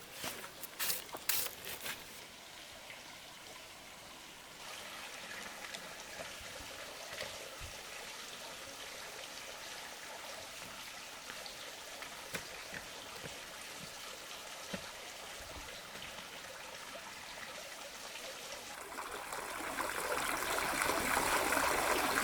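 Water running and trickling steadily, growing louder near the end, with a few light knocks in the first two seconds.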